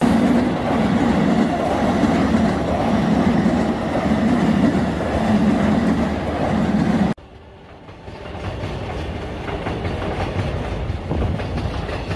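A commuter train running past, its wheels clattering over the rails with a soft beat about once a second. About seven seconds in the sound cuts off suddenly to a quieter train sound that slowly grows louder.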